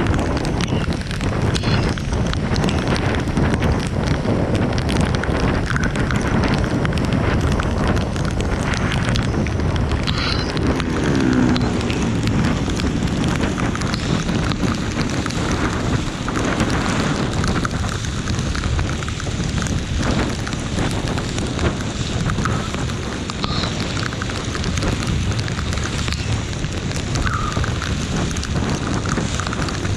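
Heavy rain falling as a steady dense hiss, with a low rumble of wind on the microphone.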